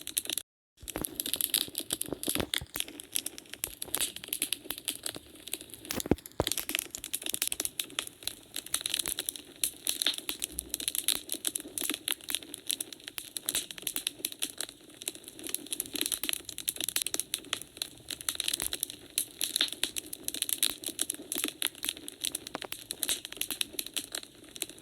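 Wood fire crackling in a fireplace: a dense, irregular run of sharp pops and snaps that drops out to silence briefly just after the start.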